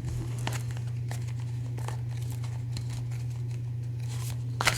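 Tarot cards being handled and drawn: scattered soft card flicks and rustles, with a quicker, louder flurry near the end. A steady low hum runs underneath.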